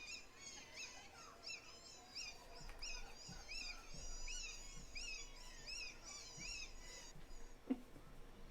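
An animal's high-pitched squeaks, repeated about twice a second, stopping after about seven seconds. A single short click comes near the end.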